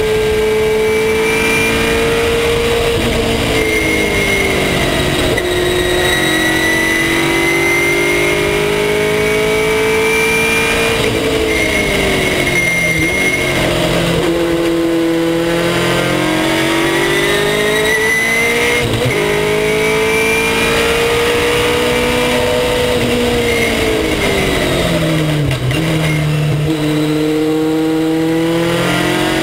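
Race car engine at racing speed, heard from on board: its note climbs slowly under power, then drops sharply on lifting or downshifting, three times over, before climbing again near the end. Steady wind and road noise underneath.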